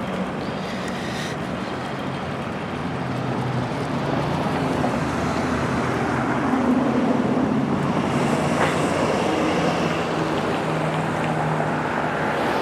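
Street traffic: a steady wash of road noise with the low hum of vehicle engines, growing louder a few seconds in as a vehicle comes close.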